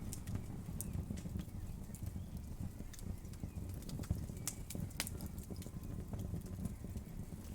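Wood fire burning with a low steady rumble of flames and irregular sharp crackles and pops of the burning wood.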